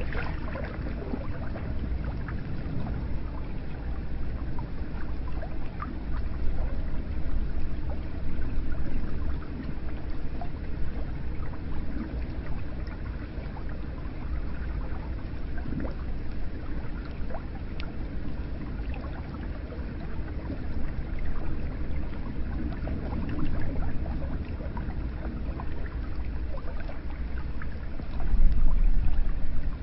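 Hot spring water running and pouring into an onsen bath: a steady low splashing with small drips and trickles. A brief louder low rush comes near the end.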